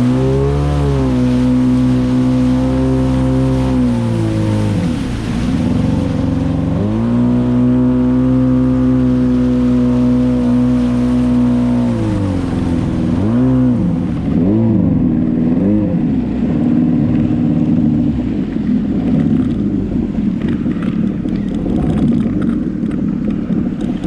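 Jet ski engine running at high throttle, the pitch dipping as the throttle eases off and climbing again several times. In the last third it turns rougher, with quicker ups and downs in pitch.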